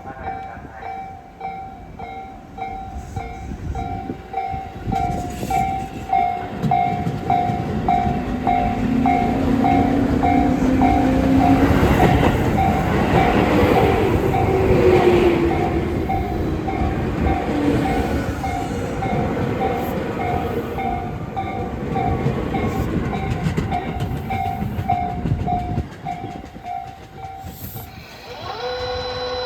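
Tobu Urban Park Line electric train running through the station with wheels clattering and a motor whine that rises and then falls in pitch. Throughout, a level-crossing bell dings in a steady repeating rhythm; it stops near the end, when a steady held tone starts.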